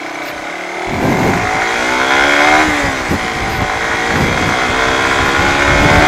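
Suzuki Raider 150 FI's single-cylinder engine revving as the motorcycle pulls away. Its pitch climbs from about a second in, then dips and climbs again a few times.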